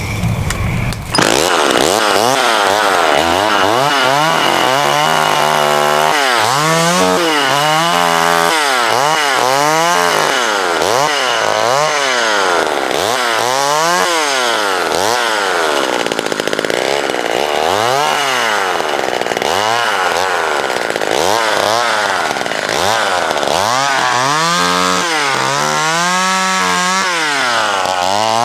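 Vintage McCulloch Mini Mac 35 two-stroke chainsaw starting up about a second in, then revving up and down over and over as it cuts through branches.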